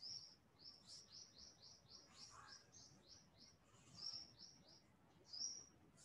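Faint bird chirping: a quick run of short rising chirps, about four a second, followed by a few separate chirps near the end.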